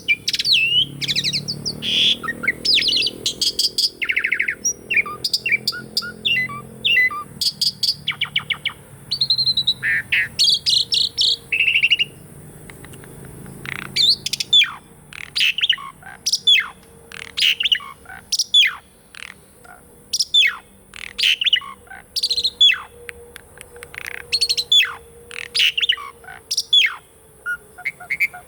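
Pied starling (jalak suren) singing: a varied run of whistles, chatter and harsh notes, then after a short pause a string of short, sharp calls that each sweep down in pitch.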